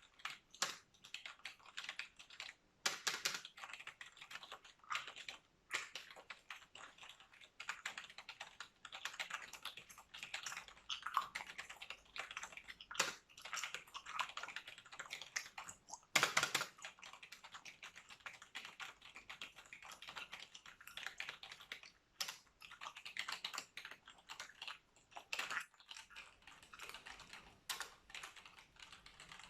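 Computer keyboard typing close to the microphone: a dense, continuous stream of key clicks, with a few noticeably louder key strikes scattered through.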